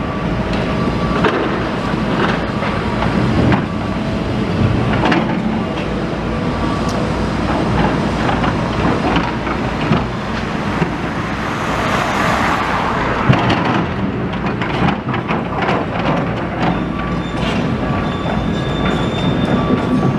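Heavy machinery running steadily, with a continuous engine rumble and frequent metallic clanks and knocks.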